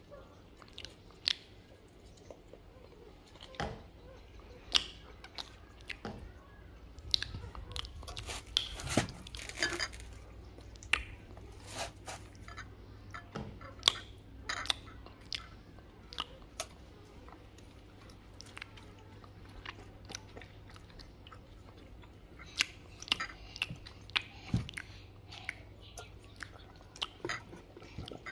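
Close chewing and eating: irregular sharp clicks and crunches scattered throughout, a few much louder than the rest.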